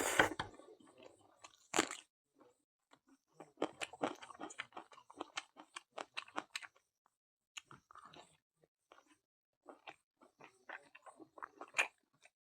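A person chewing a mouthful of food, many short clicks in quick runs with a brief pause about halfway through.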